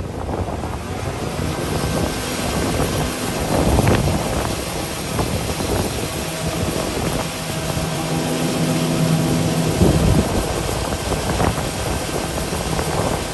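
Combine harvester running steadily in the corn field, an engine drone with a constant hum and louder swells about four and ten seconds in.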